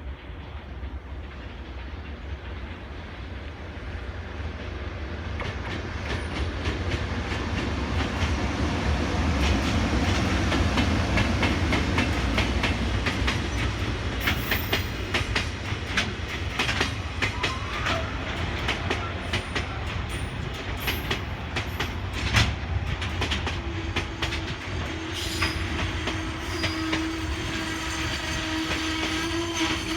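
EH200 electric locomotive hauling a freight train in, growing louder over the first several seconds, with a low rumble and rapid wheel clicks over rail joints. Near the end a steady squeal sets in as the train slows to arrive.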